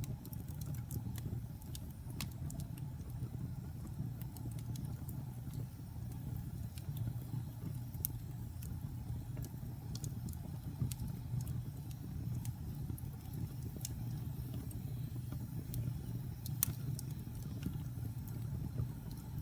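Wood fire burning in a fireplace: a steady low rumble of the flames with frequent small crackles and occasional sharper pops from the burning wood.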